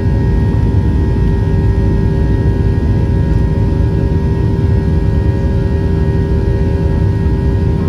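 Boeing 737's jet engines heard from inside the passenger cabin at take-off power: a loud, steady rush with several steady whining tones above it.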